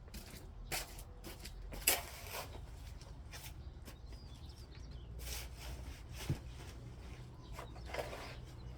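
Soil being scraped and shovelled to fill the edge of a garden bed: a series of separate scraping, scooping strokes, the loudest about two seconds in.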